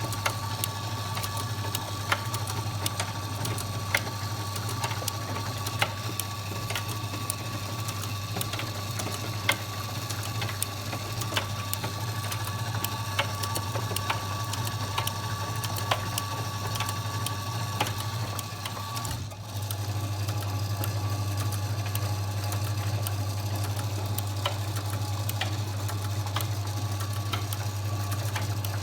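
Washing machine running with a steady low mechanical hum and scattered light clicks; the hum drops out briefly about 19 seconds in, then carries on slightly louder.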